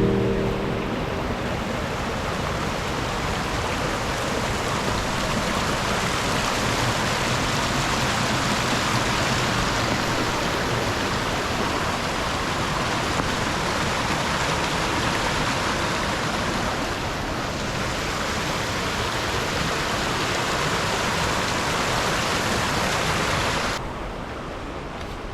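Rushing stream: a steady noise of running water that drops abruptly to a softer rush near the end.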